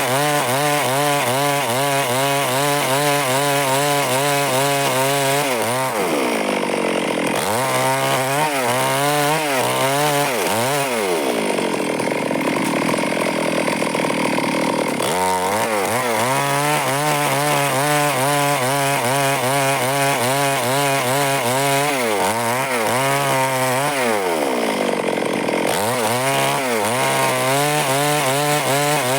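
Stihl chainsaw running at high revs while cutting wood, its engine pitch sagging and recovering several times as the chain loads up in the cut.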